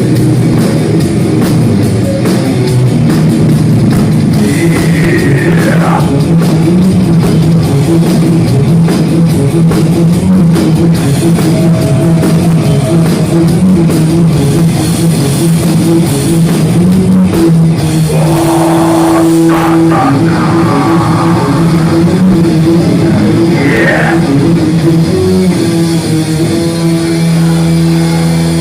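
A heavy metal band playing live and loud: distorted electric guitars over a drum kit. Two high notes bend downward, about five seconds in and again near the end.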